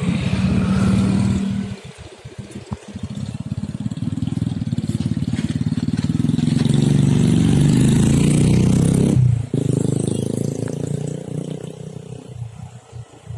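Motor vehicle engines running as traffic passes close by, loudest for a few seconds in the middle and cutting off abruptly about nine seconds in.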